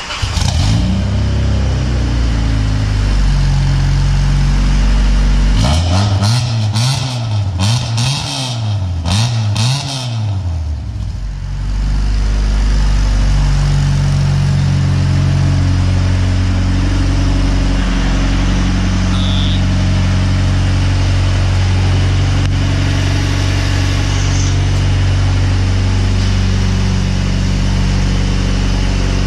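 Jeep Grand Cherokee SRT engine and muffler-deleted exhaust, loud throughout. It pulls hard through several quick rises and drops in pitch that sound like gear changes under acceleration, then settles into a steady drone at cruising speed for the rest of the clip.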